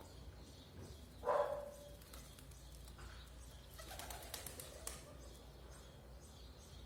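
Pigeons cooing, with a loud coo about a second in and a brief flurry of wing claps around four seconds in. Faint high chirps repeat in the background.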